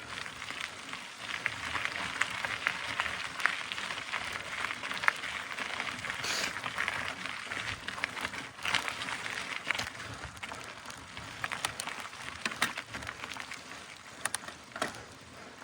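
Mountain bike climbing a dirt trail: a steady crackling crunch of the tyres on loose ground, with scattered sharp clicks and knocks.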